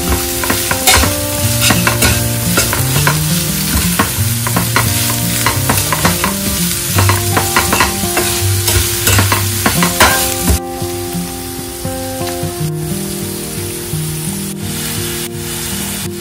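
Salted squid and chilli spice paste sizzling as they fry in a stainless steel pan, stirred with a slotted metal spatula that scrapes and taps against the pan. The spatula strokes come thick and fast for the first ten seconds or so, then thin out.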